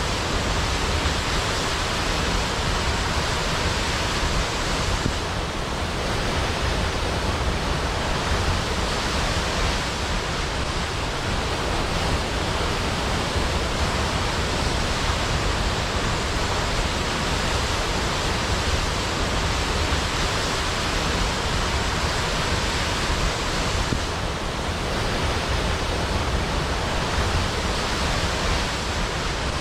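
Large waterfall pouring steadily into a pool: a constant, even rush of falling water.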